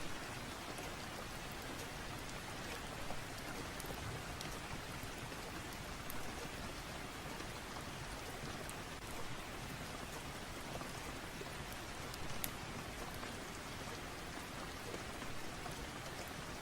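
Steady rain, with a few short sharp crackles from a wood fire scattered through it.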